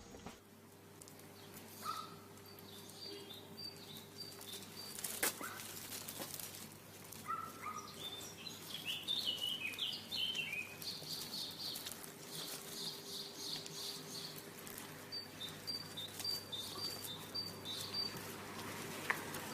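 Small birds chirping: scattered short high calls and runs of quick repeated notes over a faint steady background.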